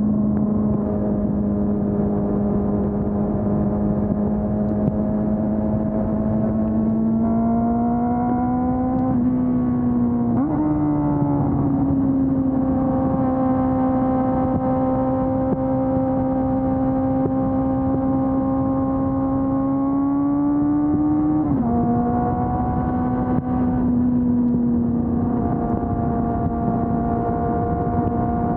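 Honda CB400 Super Four's inline-four engine with stock exhaust, running under way at fairly steady revs. Its note climbs slowly, steps up sharply about ten seconds in, and drops back sharply about twenty-one seconds in.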